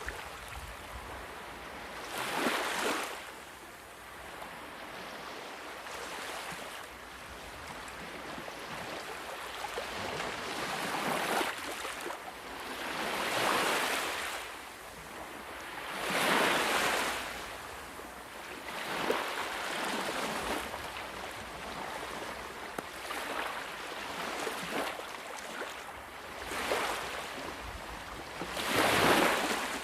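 Sea waves washing onto a shore in repeated surges a few seconds apart, each one swelling and then fading back.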